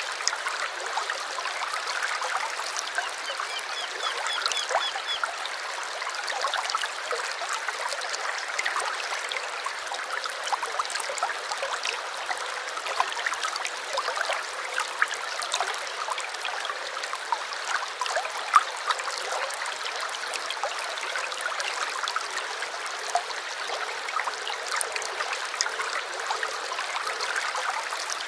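Small stream flowing and trickling steadily. A bird sings a brief high trill about three to five seconds in.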